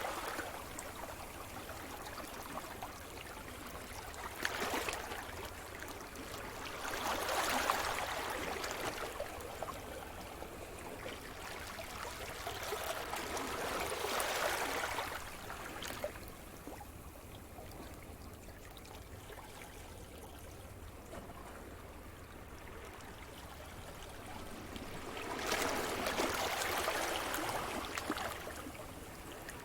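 Sea surf: waves breaking and washing up the shore in slow surges, about four swells of rushing water. Between the third and fourth there is a longer lull.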